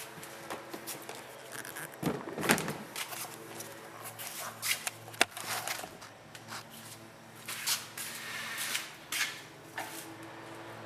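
Handling noises: scattered clicks, knocks and short rustles over a faint steady low hum, with no engine running.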